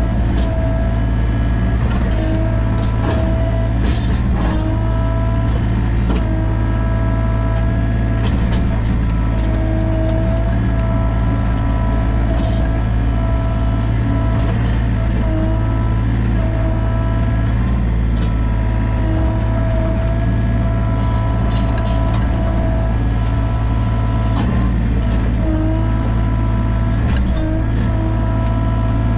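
Sany mini excavator's diesel engine running steadily, its pitch dipping briefly every few seconds as the hydraulics take load.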